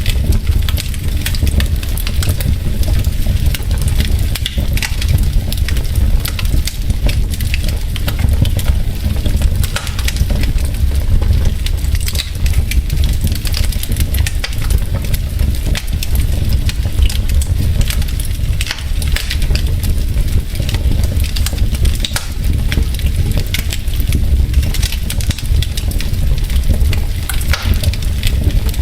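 Wood logs burning in a fireplace, crackling and popping irregularly over a steady low rumble of the fire.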